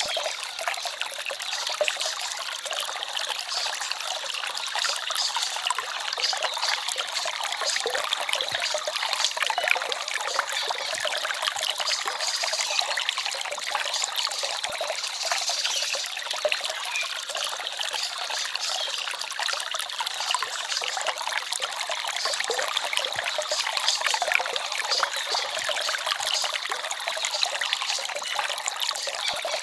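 A small forest stream babbling and trickling steadily, a dense patter of tiny splashes with little deep rumble.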